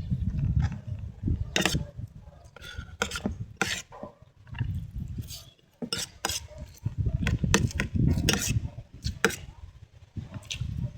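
Spoon and fork clicking and scraping against a plate, a dozen or so sharp irregular clinks, over low close-up eating noises.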